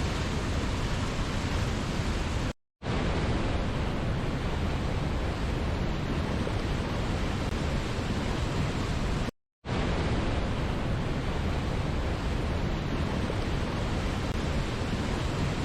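Steady, dense rushing of a waterfall, an even wash of noise with no rhythm. It cuts out to silence for a split second twice, about two and a half seconds in and again about nine and a half seconds in, as at the joins of a looped recording.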